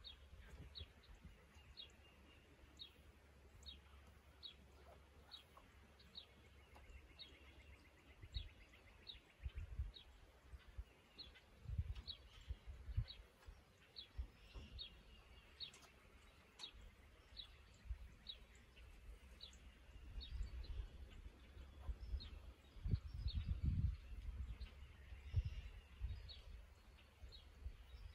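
A bird calling over and over with a short, falling chirp, about two a second. Irregular low thumps and rumbles come and go underneath, loudest about 12 s in and again around 23–25 s.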